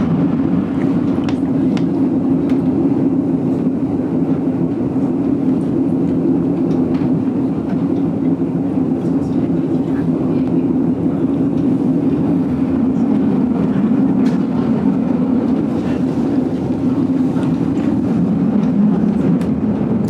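GoldenPass Belle Époque train running on the rails, heard from inside the carriage: a steady low rumble with scattered faint clicks and rattles.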